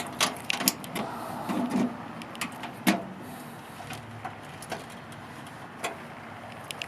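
Scattered clicks, knocks and rattles of the engine access panel in the bed of a 1993 Subaru Sambar kei truck being unlatched and lifted open, the loudest knock about three seconds in.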